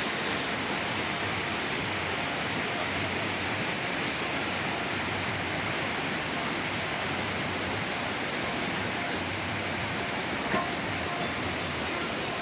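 Waterfall: a steady, even rush of falling water, with one brief tick about ten seconds in.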